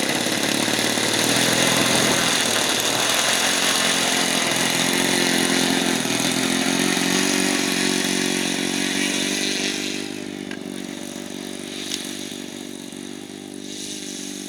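RC airplane's motor and propeller running at high power through the takeoff run from long grass, a steady buzzing whine. About ten seconds in it falls off in loudness as the plane climbs away.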